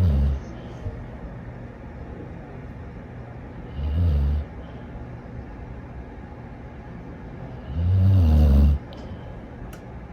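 A dog snoring in slow, regular breaths: three low snores about four seconds apart, the last one longer.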